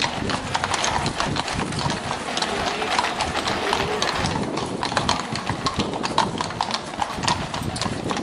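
Horse hooves clip-clopping on a hard surface: a quick, irregular run of sharp clops, several a second.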